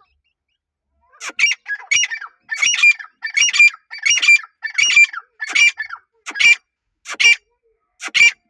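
Partridge (teetar) calling: a loud, harsh series of repeated multi-note calls, about one every 0.7 s, starting about a second in, with a short pause near the end.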